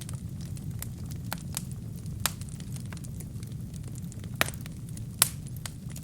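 Wood fire burning in a fireplace: a steady low rumble of flames with sharp, irregular crackles and pops of the burning wood, a few louder pops about two, four and five seconds in.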